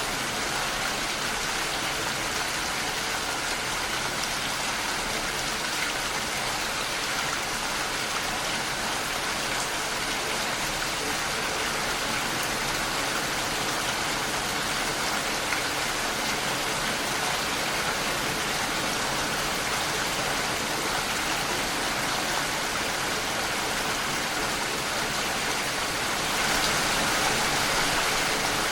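Steady rainfall, an even hiss of falling rain and drops on surfaces, growing slightly louder near the end.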